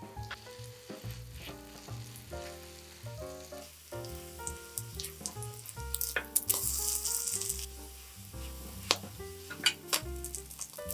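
Food sizzling as it fries in a pan, loudest for a second or so about six seconds in, with a few sharp clicks near the end, over soft piano music.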